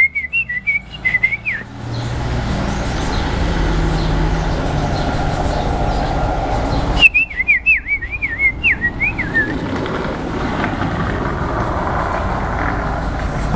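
Canary singing two short phrases of quick, wavering whistled notes, one at the start and another about seven seconds in, over a steady low background rumble.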